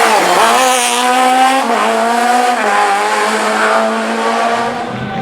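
Rally car engine running hard, its pitch dipping and recovering at first, then holding and stepping down twice before fading near the end.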